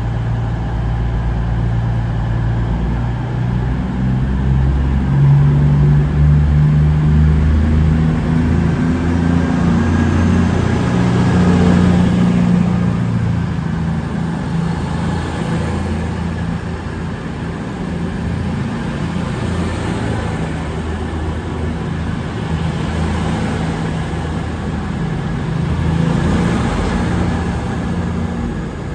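Diesel train engine running close by, a low drone whose pitch shifts up and down in steps over the first dozen seconds and then settles.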